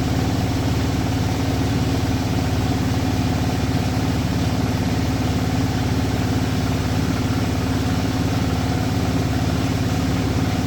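An engine running steadily at idle, an even hum that does not change.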